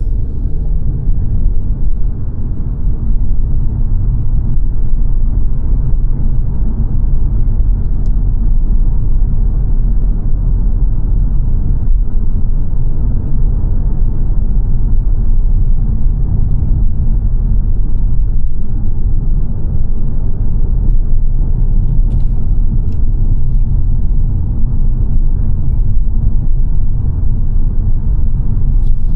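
Steady low rumble of road and engine noise heard inside the cabin of a moving 2022 Mazda 3 saloon.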